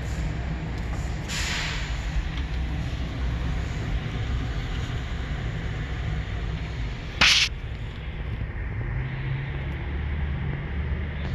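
Steady low rumble of vehicle noise, with a short loud hiss about seven seconds in and a fainter hiss about a second and a half in.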